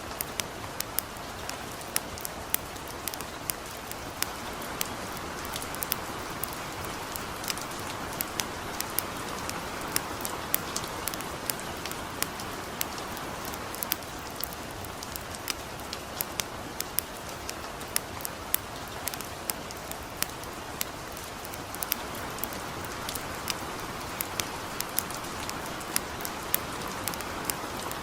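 Steady light rain hiss with a campfire crackling over it: sharp, irregular pops, a few every second.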